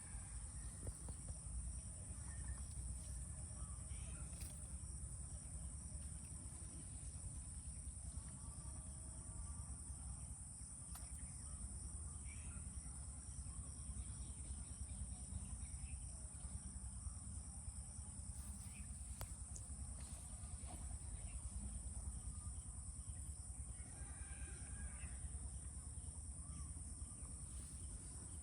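Insects chirring in a steady, unbroken high-pitched drone, with a few faint, scattered bird calls and a low rumble underneath.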